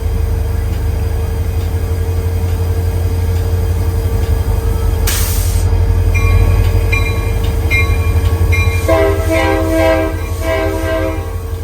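Diesel locomotive BNSF 6976 running hard under throttle, a loud steady low engine drone with a steady whine over it. About five seconds in there is a brief hiss, and near the end the air horn sounds two blasts.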